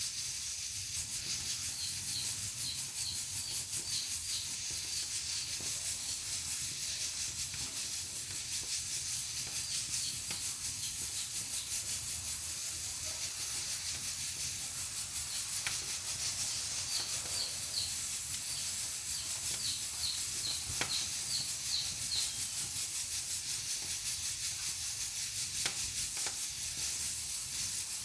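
Pressure cooker on a wood-burning stove hissing steadily as steam escapes, with a few sharp crackles from the wood fire.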